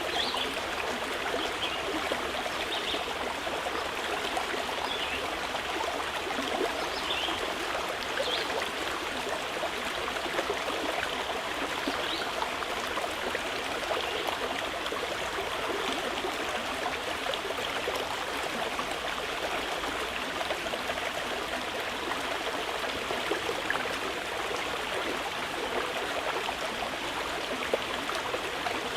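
A mountain river flowing with a steady rush, with a few brief bird chirps in the first half.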